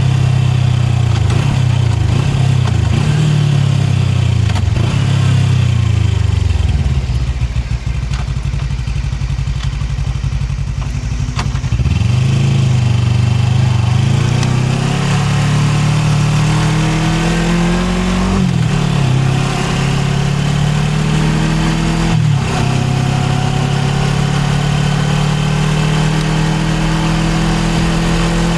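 Suzuki GSX250R's parallel-twin engine on the move. Its note drops to a low steady run for a few seconds near the middle, then climbs as the bike pulls away, dipping briefly twice for upshifts before settling into a steady cruise.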